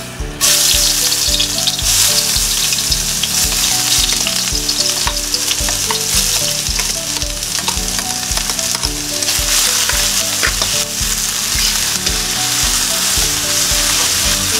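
Chopped onions hitting hot oil in a steel wok and sizzling loudly. The sizzle starts suddenly about half a second in and stays steady, with light scrapes and taps of a metal spatula stirring them.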